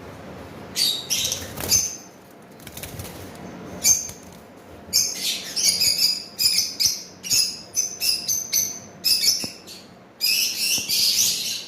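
Small pet parrots calling in short, shrill chirps, starting about a second in and coming in quick clusters with brief gaps.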